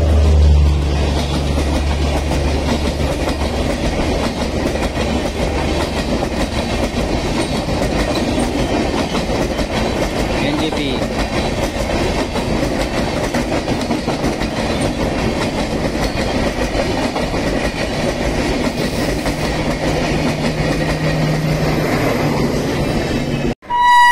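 Passenger coaches of an Indian Railways express passing close by at high speed: a loud, steady rush of wheel and track noise, with a low hum fading in the first few seconds. Near the end the sound cuts off, and an electric locomotive's horn starts.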